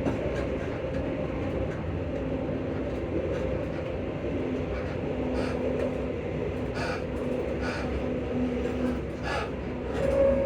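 ScotRail Class 334 electric multiple unit under way, heard on board: a steady running rumble with a traction motor hum holding two steady notes. Wheel clicks come over the rail joints now and then. Near the end the higher motor note swells and grows louder.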